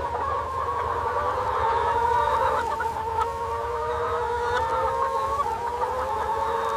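A flock of chickens clucking, many calls overlapping without a break.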